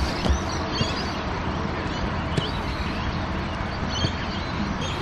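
Many small birds chirping over a steady background noise, with a few short knocks.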